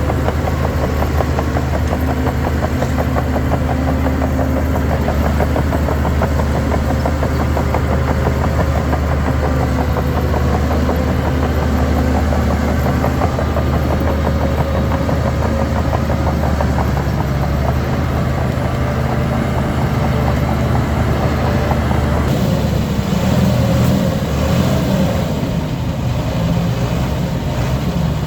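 Heavy diesel engine of a Shantui DH17 C3 bulldozer running steadily at working speed; about three-quarters of the way through the engine note changes as the load shifts.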